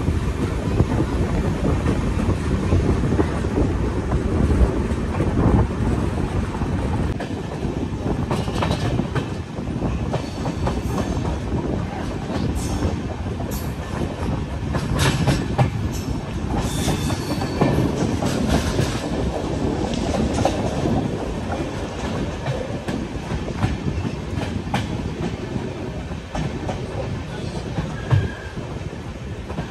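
Passenger train coach running at speed, heard from its window: a steady rumble of wheels on the track, with a run of sharp clickety-clack strikes in the middle as the wheels cross rail joints.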